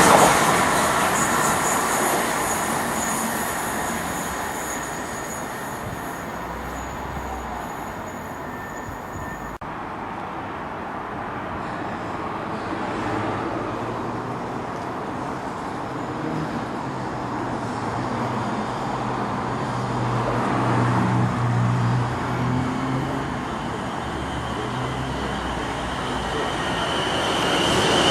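Passing train fading away over the first several seconds, then the rumble of another train growing louder toward the end as it approaches.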